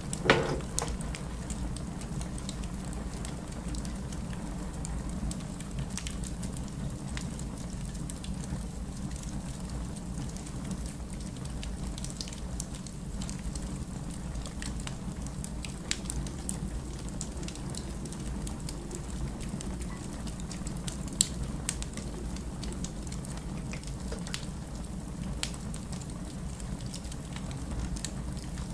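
Wood fire burning in a fireplace: a steady low rumble with scattered sharp crackles and pops, and one louder knock right at the start.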